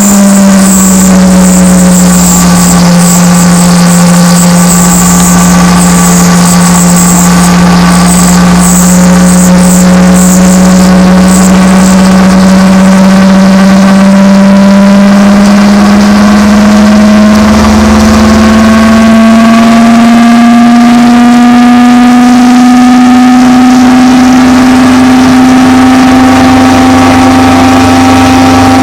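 Small lathe motor running steadily while turning a brass pulley. Its hum sags slightly at first, then rises slowly in pitch. A high hiss of cutting runs through the first ten seconds or so.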